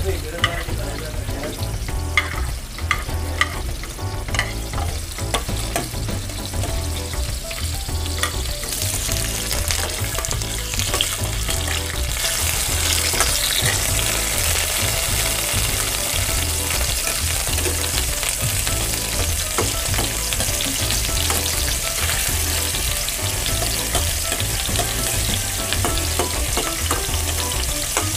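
Garlic, chopped onion and tomato sautéing in hot oil in a stainless steel wok: a steady sizzle that grows louder partway through, with a spoon clicking against the plate and pan as the onion is scraped in during the first few seconds.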